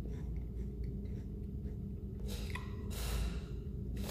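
A man chewing potato chips with faint crunches, then a short breath and a longer one through the nose in the second half, over a steady low hum.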